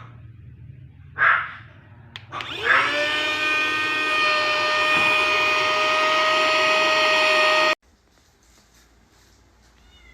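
Cordless handheld mini vacuum cleaner motor switching on, spinning up in pitch to a steady high whine with suction rush, then cutting off abruptly after about five seconds. Two short dog barks come before it starts.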